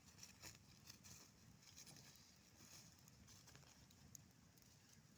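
Faint campfire crackling, with scattered soft pops and ticks.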